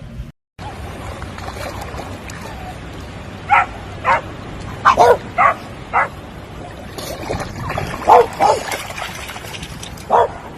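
A dog barking: about ten short barks in irregular bunches, starting a few seconds in and running until near the end.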